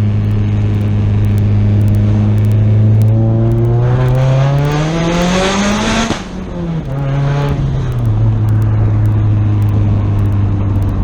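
Turbocharged Honda F22B four-cylinder engine running steadily during a drive. It revs up for about two seconds, drops off sharply about six seconds in, then rises briefly once more and settles back to a steady hum.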